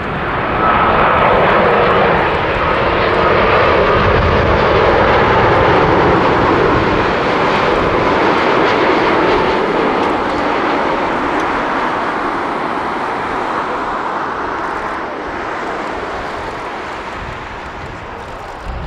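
Boeing 787-9 airliner on landing approach, its turbofan engine noise swelling sharply about a second in, staying loud for several seconds, then slowly fading as it passes, with a faint whine that sinks slightly in pitch.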